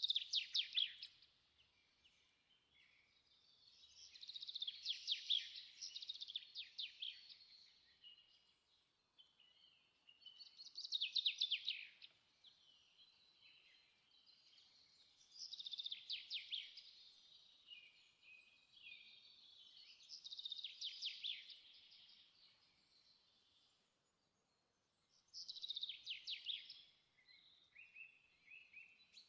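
A songbird singing: short phrases of rapid high notes, repeated about every five seconds with quiet gaps between.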